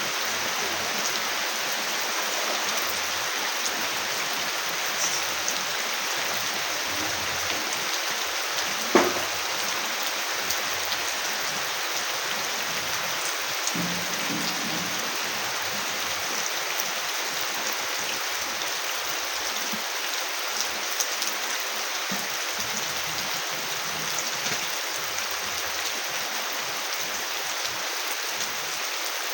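Heavy rain falling steadily, a dense even hiss of drops on surfaces, with one sharp knock about nine seconds in.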